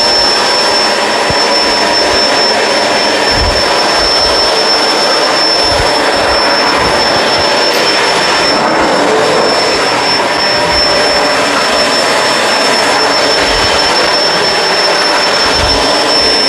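Kenmore Crossover Ultra upright vacuum running steadily at full suction with its brush roll switched off for hard floor. The motor gives a loud, even rush of airflow with a constant high whine.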